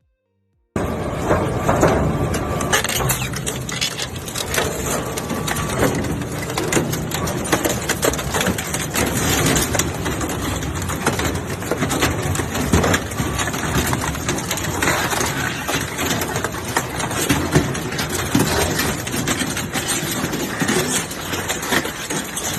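Industrial metal shredder tearing through scrap metal: a loud, dense grinding and crunching with many sharp cracks and bangs over the machine's running. It starts abruptly under a second in.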